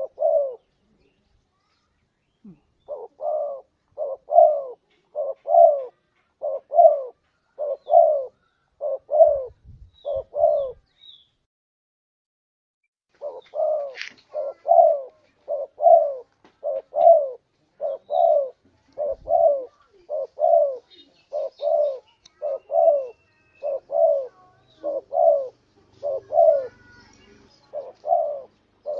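Spotted dove (tekukur) cooing: a long run of short, low coo notes, with two pauses of about two seconds, one near the start and one around the middle. It is the 'kuk dua' song of a contest bird, used as a lure call to draw in other doves.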